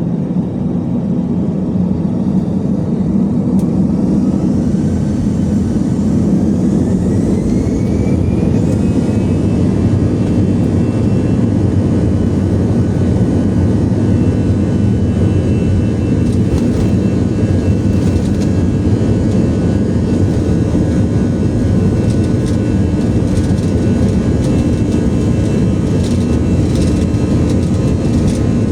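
Airbus A321 cabin noise from a window seat: steady jet engine and airflow noise with a low rumble. A whine rises in pitch over a few seconds and then holds level.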